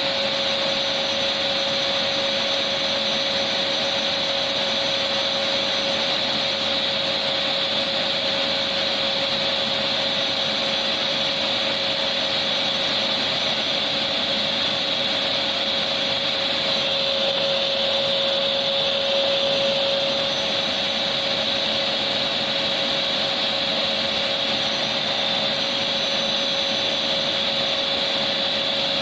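Electric vacuum cleaner running, a steady motor whine with a rushing of air and a constant high hiss, unchanging throughout.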